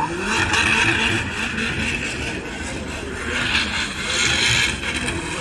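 Drift car engines running and revving, with a noisy haze of tyre sound.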